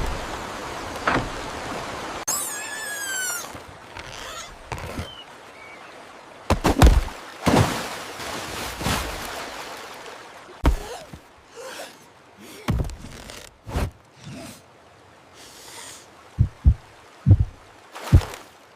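Cartoon sound effects: a string of separate thuds and swishes, several with a deep thump, and a short warbling animal call about two seconds in.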